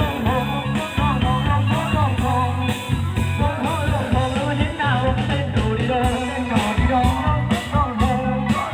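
Live band playing an upbeat song: drums and bass keep a steady, driving beat under a bending lead melody, with no words sung.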